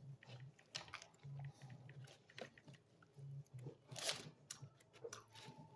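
A person chewing food quietly, with soft, irregular mouth clicks and one sharper, louder noise about four seconds in.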